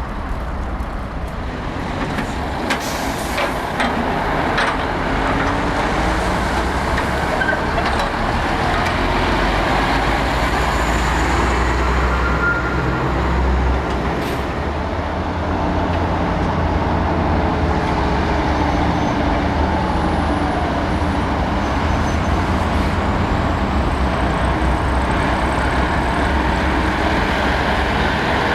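Heavy diesel trucks running and manoeuvring close by: a deep engine rumble with the engine speed slowly shifting, and a few short sharp sounds about three to five seconds in. It grows louder over the first few seconds and then stays loud.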